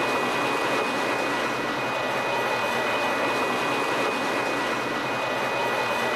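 Steady rushing noise of a train, even in level throughout, with two faint steady high-pitched tones running over it.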